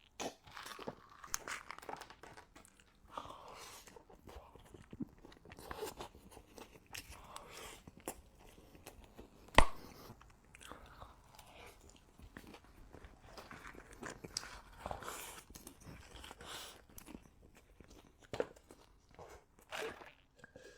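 Close-up eating sounds: a person biting and chewing food with irregular crunches and wet mouth clicks. A single sharp, louder click comes about nine and a half seconds in.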